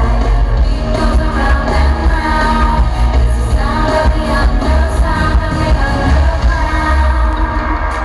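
Live pop music in an arena: female singing over a loud band with heavy bass, played through the PA.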